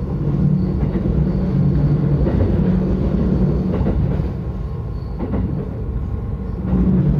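Yokosuka Line electric commuter train running, heard from inside the carriage: a steady low drone of motors and wheels on the rails, with a few faint clicks.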